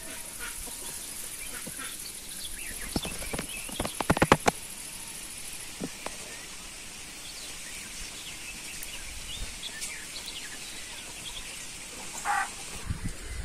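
Rural yard ambience: small birds chirping and a steady high insect buzz that stops about six seconds in. A quick run of clicks comes three to four seconds in, and a short call near the end.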